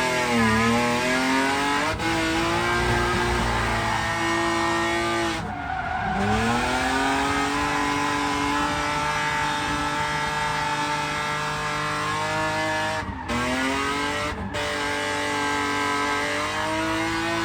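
BMW E36 drift car's engine held at high revs through long slides, with tyre squeal. The revs drop sharply and climb back about a third of the way in, then dip briefly twice more later on.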